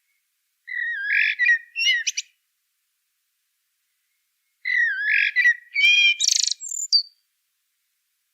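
A songbird singing two short phrases of sliding whistles and trills, about two seconds apart, the second opening the same way as the first.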